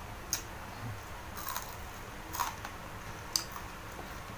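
Close-up eating sounds of a person chewing a mouthful of food, with four short sharp mouth clicks about a second apart over a faint steady hiss.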